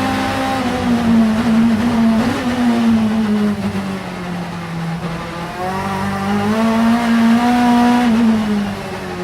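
Vauxhall Vectra Super Touring race car's four-cylinder engine under load. Its note climbs and falls twice, dropping sharply about eight and a half seconds in.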